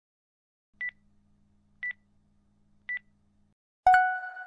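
Pose-timer countdown: three short, high beeps about a second apart, then a louder, lower tone that starts near the end and rings on, marking the end of the timed pose.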